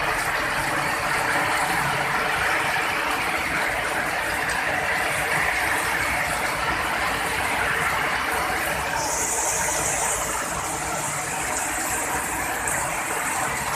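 Heavy rain falling steadily, a dense even hiss; a higher, brighter hiss joins about nine seconds in.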